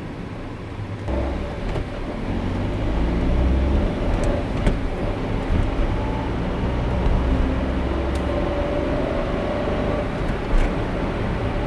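Car driving on a city road: a steady rumble of road and engine noise that grows louder about a second in, with a faint hum coming and going.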